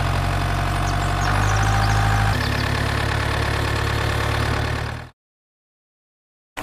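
Steady, low engine idling hum with a few small shifts in pitch, fading out about five seconds in and followed by a second and a half of silence.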